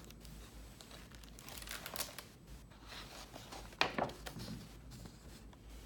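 Paper rustling as a book's pages are turned, faint and soft, with a short sharp tap a little before four seconds in.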